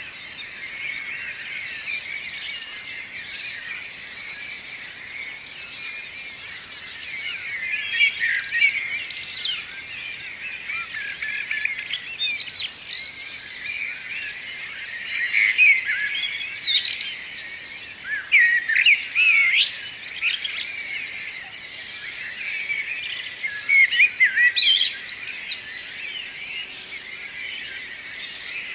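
Many songbirds singing and chirping at once in a morning chorus: a steady bed of quick, high twittering with louder song phrases standing out every few seconds.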